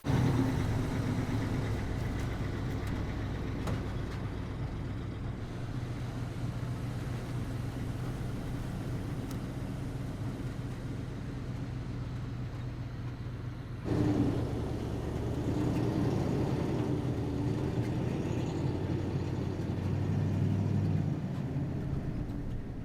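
Pickup truck on the move, engine humming steadily under road noise; the sound shifts abruptly about 14 seconds in.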